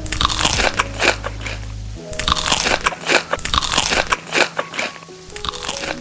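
Close-up crunching and biting of crisp food, a dense run of irregular crackly chews, with faint background music underneath.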